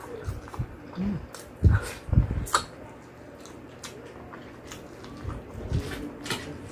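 Eating sounds from a mukbang of whole fried chicken: irregular chewing and biting with sharp mouth clicks and smacks, most of them clustered early, one more about two-thirds of the way through.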